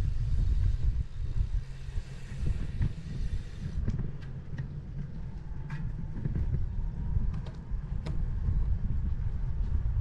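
Wind buffeting the microphone of a camera riding on a moving bicycle, a heavy uneven rumble, with the hiss of tyres on the path. The hiss eases about four seconds in, and a few light clicks follow.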